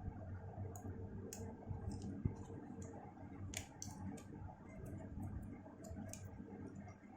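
Faint, irregular small clicks and taps of tools and parts being handled during an iPhone repair, over a steady low hum.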